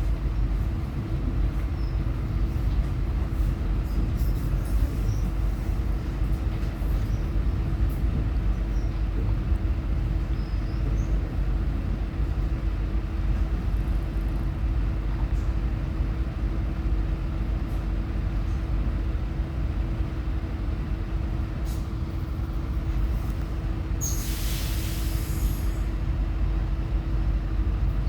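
Passenger train heard from inside, with a steady low rumble and a constant hum as it runs. A short hiss comes about 24 seconds in.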